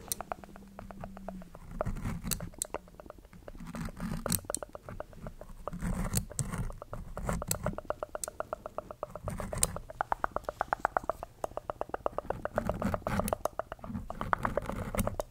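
Close-miked ASMR mouth sounds: fast runs of small, wet clicks and smacks with soft pauses between the runs.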